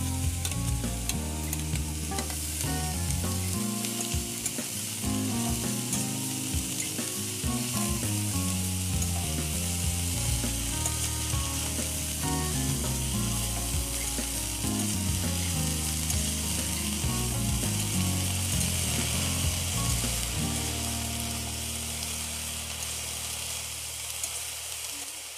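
Chopped greens and red onion sizzling in hot oil in a pan, turned with a metal spatula: a steady frying hiss that eases a little near the end.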